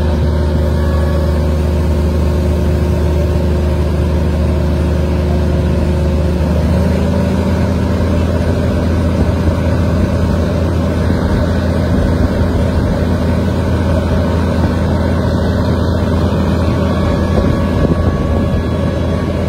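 Moving passenger train heard from an open carriage window: a loud, steady rumble of the train running along the track, with a low engine drone under it.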